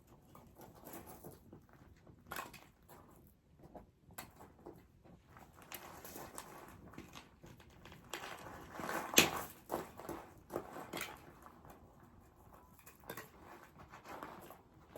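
Dry deadwood crackling and snapping in irregular clicks, with one sharp, louder snap about nine seconds in.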